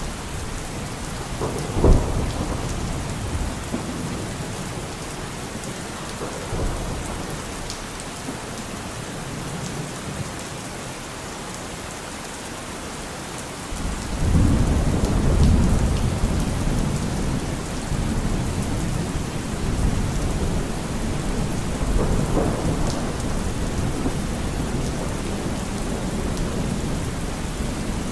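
Steady rain falling, with thunder: a sharp crack about two seconds in and a long low rumble that starts about halfway through and fades slowly.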